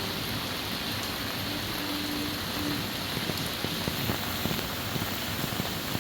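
Steady rain falling, with many separate drops striking hard surfaces close by.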